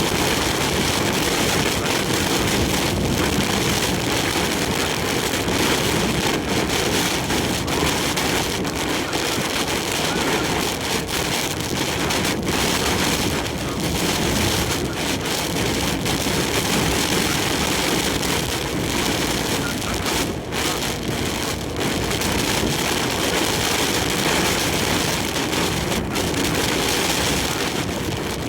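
Heavy typhoon rain and strong wind beating on a large truck driving on the expressway, heard from the cab, with the truck's running and road noise underneath as a steady, dense rush.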